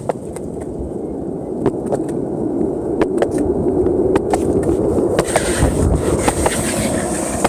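Skateboard wheels rolling on pavement: a rumble that builds in loudness, broken by scattered sharp clicks.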